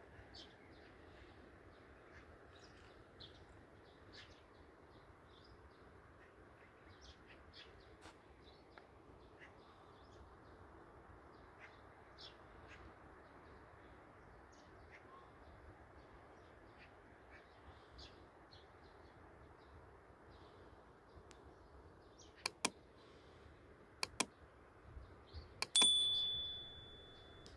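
Many faint, short bird chirps over a steady outdoor hiss. Near the end come a few sharp clicks and then the loudest sound, a clear high tone held for about a second before it fades.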